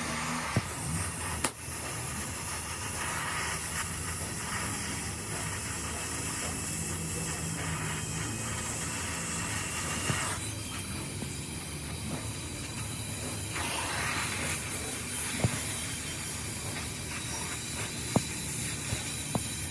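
A steady hiss over a low hum. The hiss thins for a few seconds midway, then returns, and a few sharp clicks or taps come near the end.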